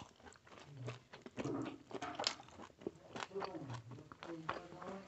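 Close-up chewing of a mouthful of rice and curry eaten by hand: wet lip smacks and mouth clicks in an irregular run, with a few short low hums from the eater.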